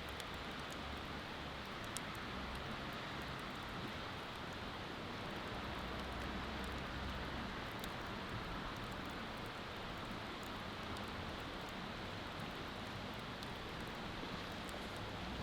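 Wood bonfire crackling with scattered small pops, over a steady rush of flowing river water.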